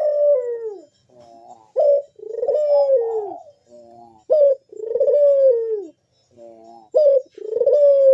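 Burung puter (domestic Barbary dove) cooing over and over in a full, excited breeding-season song. Each phrase is a soft stutter of short notes, then one sharp note, then a long coo that falls in pitch, and it repeats about every two and a half seconds.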